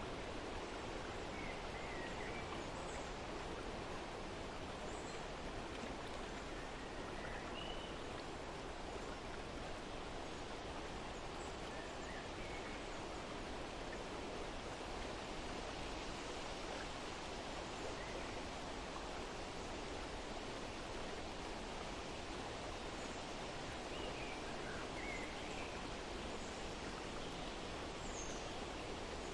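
Steady outdoor background noise with faint bird chirps scattered through it, a few at a time.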